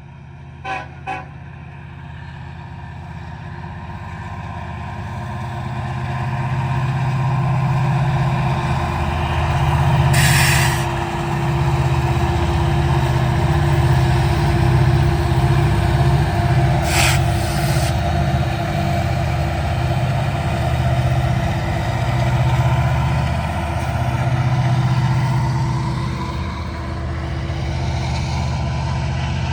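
A BNSF freight train's diesel locomotives rumble past, growing louder over the first several seconds and then staying loud with a pulsing throb. Two short hisses of air cut in about a third and just over halfway through.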